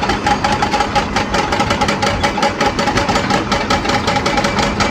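Diesel engine of a working tracked excavator running steadily, with a fast, even pulsing clatter.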